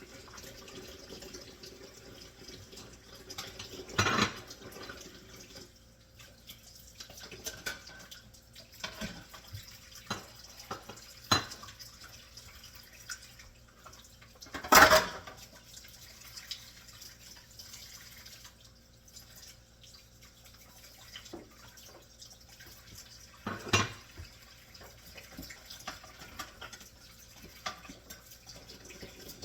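Kitchen sink sounds: a tap running at first, then dishes, pots and utensils clattering, with a few sharp knocks, the loudest about halfway through.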